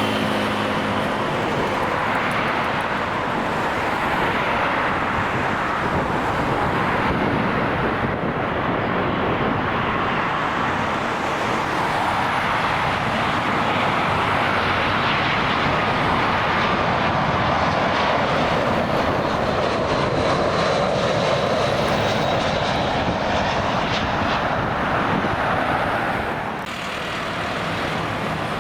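Jet airliner engines, a loud steady rushing noise with a faint high whine, dropping sharply near the end.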